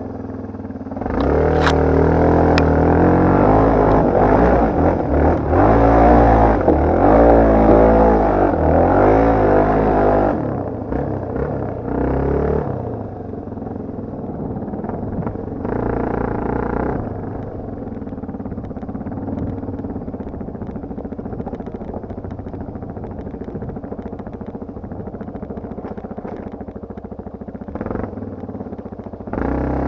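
Motocross dirt bike engine revving hard, its pitch rising and falling with the throttle for about nine seconds, then settling to a lower, steadier run with a short burst of throttle about halfway through. Two sharp clicks about two seconds in.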